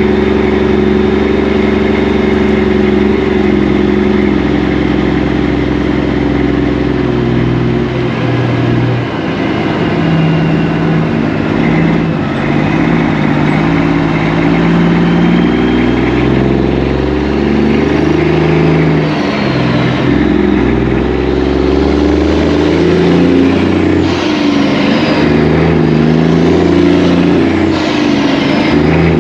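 Semi truck's diesel engine running under way, steady for the first several seconds, then rising and falling in pitch in steps as it works through the gears.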